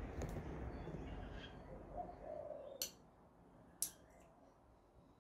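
Faint birds calling: a low call about two seconds in, then two short, sharp high chirps about a second apart.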